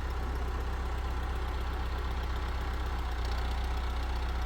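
An engine running steadily, a constant low rumble.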